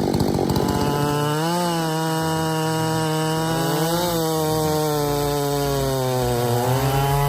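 Chainsaw running at full throttle in a cut, rough and pulsing for about the first second, then a steady high engine note that sags and picks up again a few times under the load of the wood.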